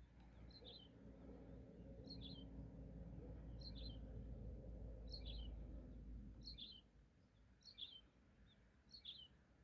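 A songbird repeating one short, high chirp about every second and a half, seven times, faint, over a low rumble that fades out about two-thirds of the way through.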